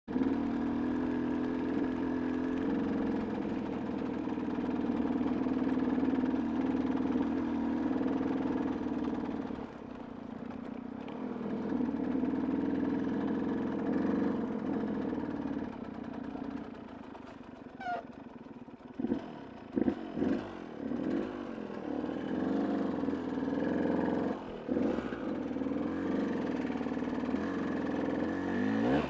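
KTM motorcycle engine running at a steady pace, then, from about two-thirds of the way through, a run of short throttle blips and revs with some clatter.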